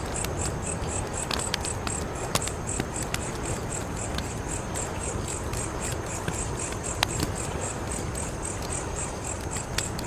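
Wood fire crackling, with scattered sharp pops over a steady hiss. Crickets chirp behind it in a high, rapid, even pulse.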